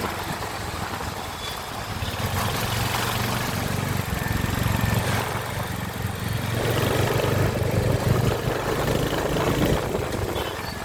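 Royal Enfield Hunter 350 motorcycle's single-cylinder engine and exhaust running steadily. It gets louder about two seconds in, with a rougher, noisier stretch past the middle.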